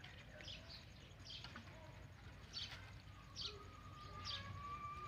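Faint wild bird chirps, short high calls about once a second, with one steady held note through the last two seconds over a low background rumble.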